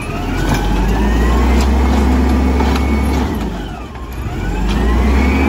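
Volvo WX garbage truck engine revving, its pitch sinking to a low point about four seconds in and climbing again, over a steady low rumble.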